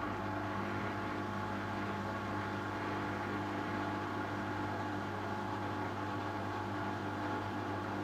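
Hotpoint washing machine running a steady electric hum with a hiss of moving water, the sound of its pump or water valve working during the cycle.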